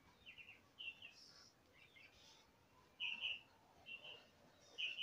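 A small bird chirping: short high chirps, several coming in quick pairs, the loudest about three seconds in and again near the end.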